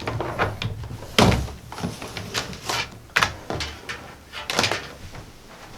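A series of knocks and clunks of hardware being handled on a desk, the loudest about a second in, with more near three and four and a half seconds.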